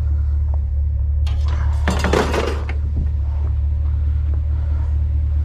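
Junk being handled and shifted in a dumpster: a burst of hard clattering knocks about a second and a half in, with a few lighter clicks, over a steady low rumble.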